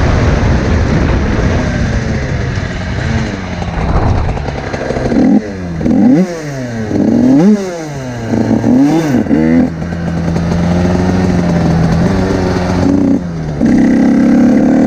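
Small two-stroke dirt bike engine running hard. A little after five seconds it revs up and down three times in quick succession, then holds a steadier note, and it climbs again near the end.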